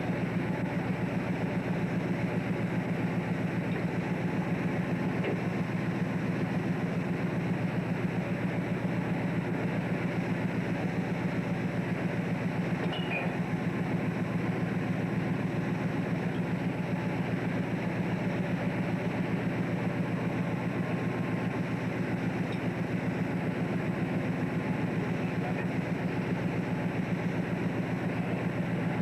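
A fishing boat's diesel engine running at a steady pace, a deep, even drone with a fast regular pulse.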